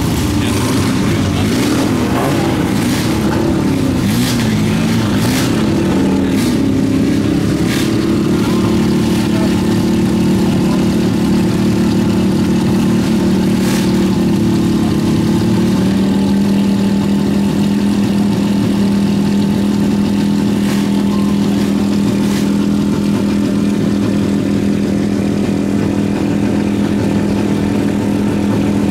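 Engines of vintage sports-racing cars idling in the starting queue. For the first few seconds the engine speed rises and falls with light revving, then settles to a steady idle.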